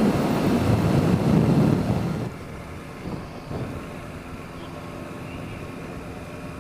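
Wind buffeting a motorcycle rider's microphone over the engine while riding. About two seconds in, the wind noise drops sharply, leaving a quieter steady hum.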